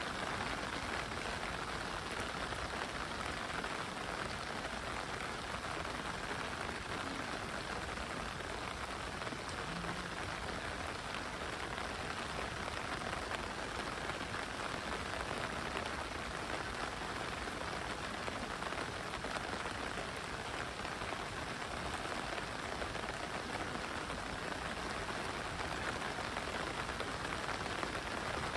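Heavy rain falling steadily, an even hiss of drops on the surfaces around.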